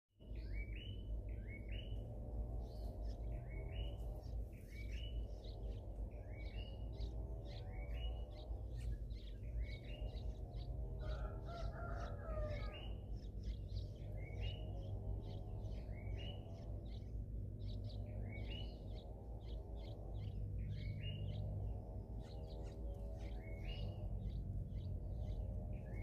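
Small birds chirping: short rising chirps in clusters of two or three, repeating every second or two, over a steady low hum. About halfway through, a lower, rougher call briefly joins in.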